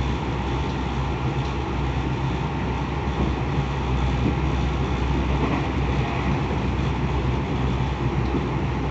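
Tokyo Metro 10000 series electric train running at speed: a steady rumble of wheels on rail and running gear, with no marked change in pitch.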